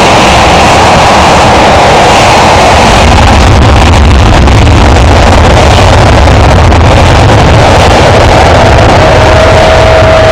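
Panavia Tornado's twin RB199 jet engines at high takeoff power, loud enough to overload the recording, with a deep rumble that strengthens about three seconds in. A steady whistle-like tone joins near the end.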